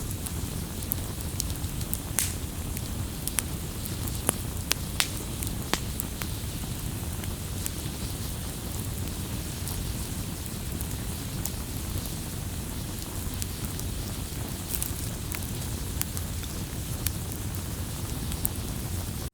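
Wood campfire crackling, with irregular sharp pops over a steady low rumble of the flames; the pops come thickest in the first six seconds or so. The sound cuts off abruptly at the very end.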